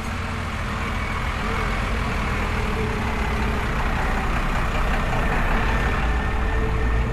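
A vehicle engine running with a deep, steady rumble that slowly grows louder.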